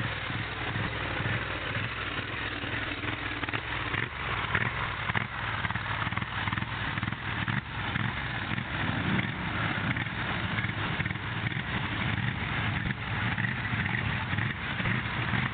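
Polaris 850 XP engine running continuously while riding, with an uneven, choppy note. This is the machine whose engine stutters, cuts out and misfires, though no single cut-out stands out here.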